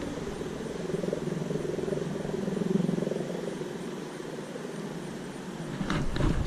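Steady engine drone of a passing aircraft, swelling about halfway through and then fading. A few sharp knocks come near the end.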